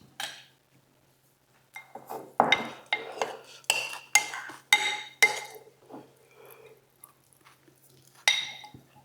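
Eating utensils clinking against dishes: a quick run of about eight sharp, ringing clinks, then one more near the end.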